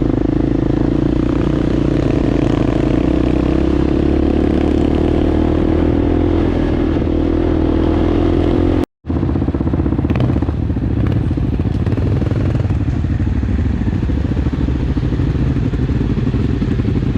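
Motorcycle engine running steadily while riding, with clattering over it. The sound cuts out abruptly for a moment about nine seconds in, then carries on.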